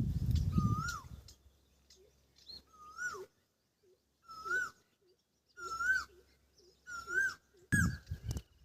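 An animal's short high call, rising then falling in pitch, repeated about six times at roughly one-and-a-half-second intervals, with a low rumbling noise at the start and again near the end.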